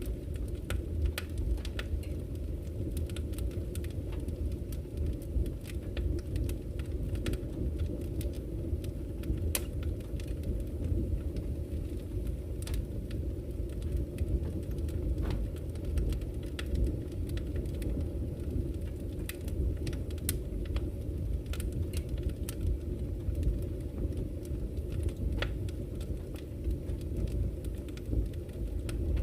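Campfire wood crackling with frequent irregular sharp pops and snaps, over a steady low rush of flowing river water.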